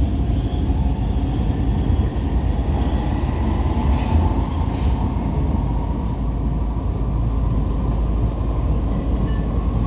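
First-generation Brussels metro train (M1–M5 series) running, a steady low rumble with a faint motor whine that slowly rises in pitch.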